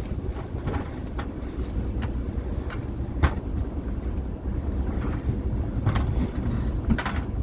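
Fishing boat's engine running with a steady low rumble, wind buffeting the microphone, and a few short knocks about 1, 3, 6 and 7 seconds in.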